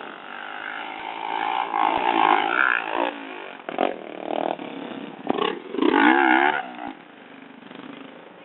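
Motorcycle engine revving in surges, pitch rising and falling, loudest around two seconds and six seconds in, then dropping back near the end.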